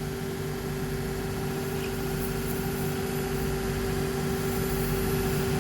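Motor of a shoe repair finishing machine running with a steady hum, as glue is cleaned off a sneaker's white rubber sole edge.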